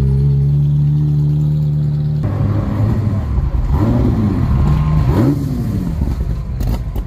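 A car engine idling steadily, then, after an abrupt change about two seconds in, an engine revved twice, its pitch rising and falling each time. A few sharp clicks near the end.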